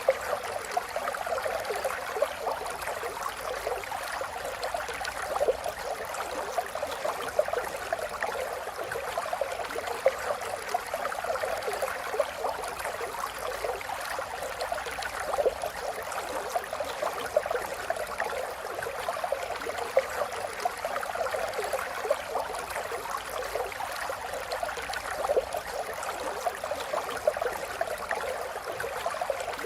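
River water flowing over stones, a steady babbling and gurgling rush with many small splashes and no pauses.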